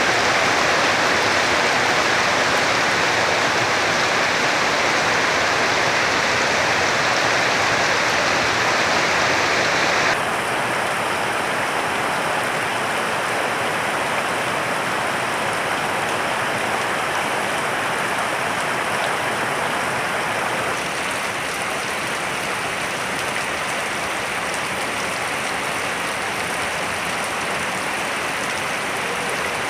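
Steady heavy rain, an even hiss of many drops. It changes abruptly in tone and loudness twice, about a third and two-thirds of the way through.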